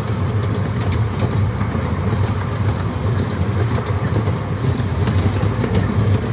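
Miniature amusement-park train running along its track, heard from aboard: a steady low rumble with scattered clicks of the wheels on the rails.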